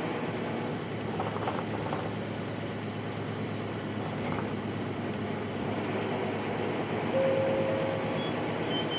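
Nissan Diesel Space Runner RM bus (KC-RM211) heard from inside the cabin, its FE6-series diesel engine running with a steady low hum. A brief steady whine sounds about seven seconds in.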